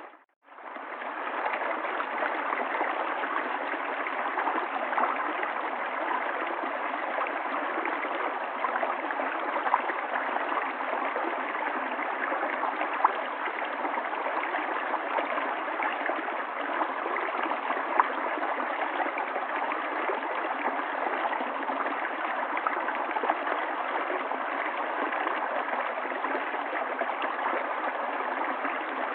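River water flowing steadily, with a gurgle and a few sharper splashes. The sound drops out for about half a second at the very start, then resumes.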